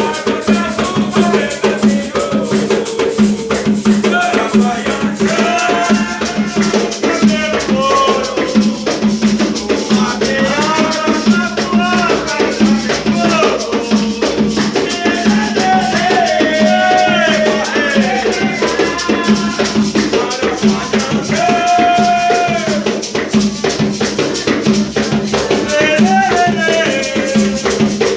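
Chant-like singing over a shaker rattled in a fast, even rhythm.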